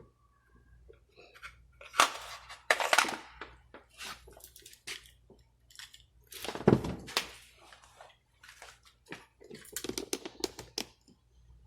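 Handling noise: irregular clicks, knocks and scrapes, loudest about two, three and seven seconds in.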